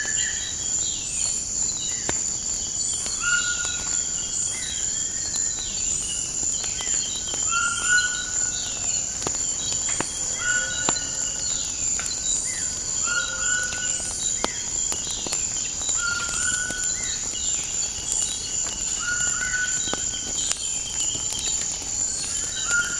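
Crackling fire with scattered sharp pops, over a steady high insect trill and birds calling. One bird repeats a short call about every second and a half.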